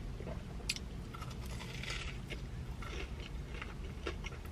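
Close-up chewing of a sugar-coated Korean corn dog: soft mouth sounds and small crisp crunches of the fried batter, with one sharper click under a second in.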